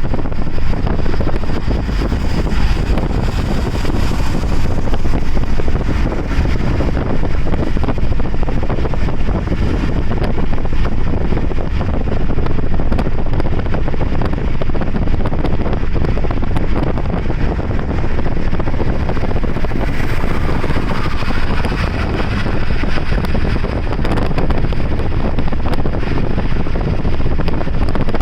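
Steady rumble of a car driving, with wind buffeting the microphone.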